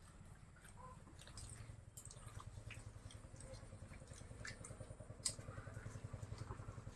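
Faint sounds of people eating parathas and aloo dum: chewing and small scattered clicks, over a low steady hum.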